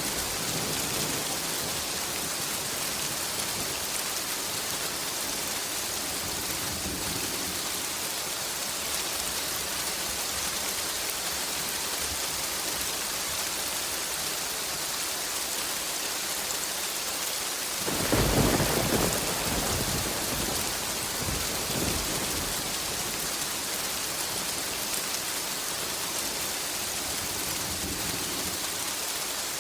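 Steady heavy rain falling, with a clap of thunder about two-thirds of the way through that rumbles for a few seconds and fades back into the rain.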